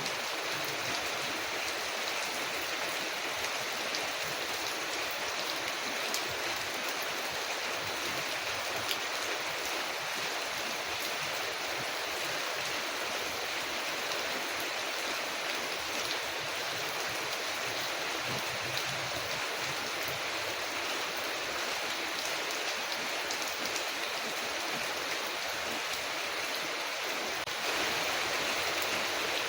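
Steady rain falling on a window, a continuous even hiss, with a few faint sharp crackles from a wood fire. It grows slightly louder near the end.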